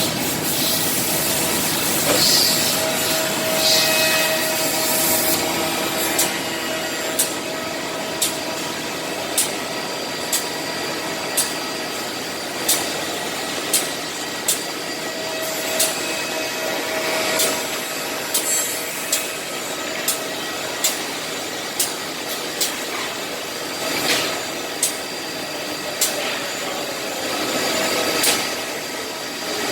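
Six-sided CNC drilling machine for wood panels running: a steady machine whir and hiss with sharp clicks about once a second.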